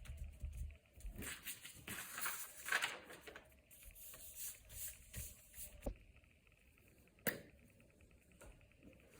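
Close-up handling noises from crafting with paper and small materials: irregular rustling and scraping with light taps, busiest in the first few seconds. There is one sharp click a little past seven seconds in.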